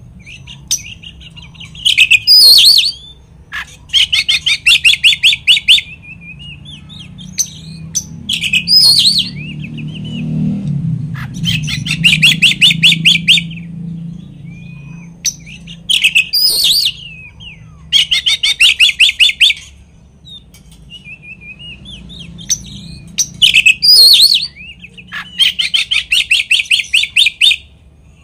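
Oriental magpie-robin (kacer) singing a loud, repeating song: about two-second bursts of a fast rattling trill alternate with sharp sweeping whistles, the whole phrase coming round roughly every seven seconds. It is a full song packed with mimicked material, the kind played to provoke rival magpie-robins into singing.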